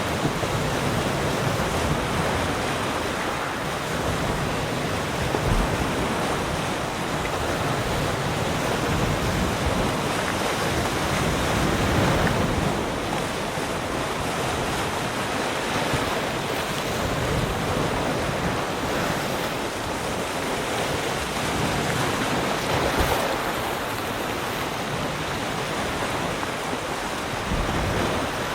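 Sea surf: waves breaking and washing on the shore in a continuous rush that swells and eases every few seconds, with some wind.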